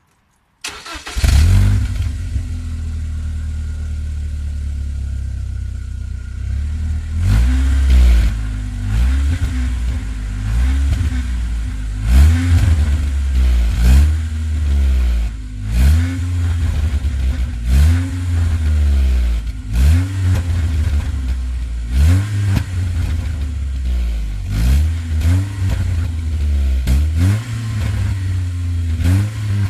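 BMW 318i E46's M43B19TU inline-four, breathing through a Novus aftermarket exhaust, starts up and idles steadily. From about seven seconds in it is revved in short blips about every two seconds, each rising and falling back to idle.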